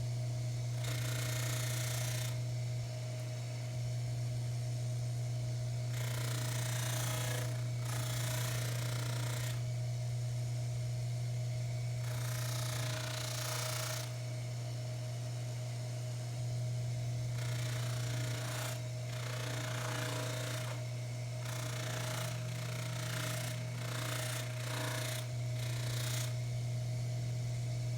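Baldor 353T dental lathe motor running with a steady hum while a cloth buffing wheel hisses in repeated bursts of a second or two each as a tobacco pipe stem is pressed against it, the bursts coming shorter and closer together later on.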